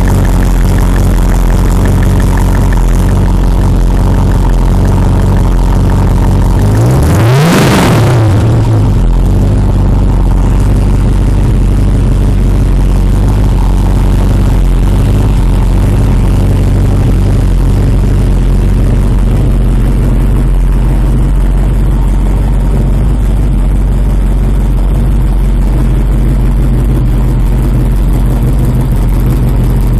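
Chevrolet small-block V8 in a Volkswagen Beetle, freshly started from cold, idling loudly. About seven seconds in it is revved once, sharply up and straight back down to idle.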